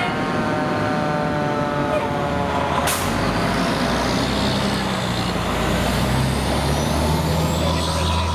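Fire truck on the move: a pitched tone with many overtones dies away over the first two seconds or so. About three seconds in comes a sharp air-brake hiss, and then the diesel engine rumbles steadily.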